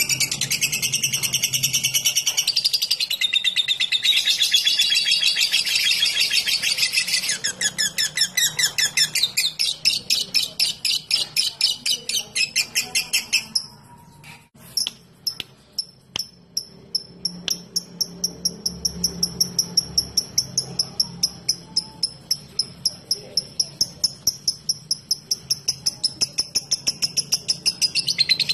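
Lovebird singing: a long, rapid, high chattering trill (the 'ngekek') that breaks off about halfway through, a few soft clicks, then an even run of short sharp high ticks at about four a second (the 'ngetik'), before the dense chatter starts again right at the end.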